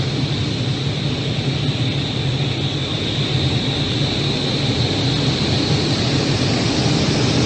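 Jet aircraft engines running: a steady, loud rush with a high whine over a low rumble, cutting off suddenly at the end.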